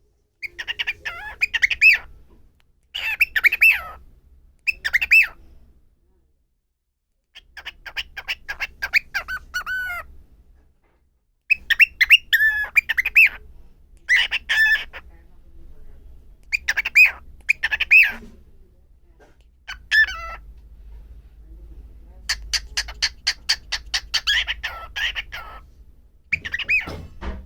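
Pet cockatiel calling in repeated bursts of rapid, high chirps, with short pauses between them.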